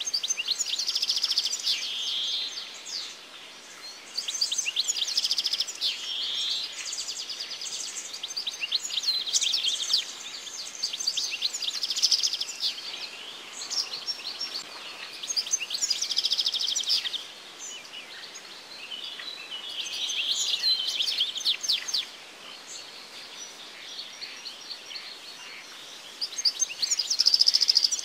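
Songbirds singing: phrases of quick chirps and rapid trills come every few seconds, over a faint steady hiss.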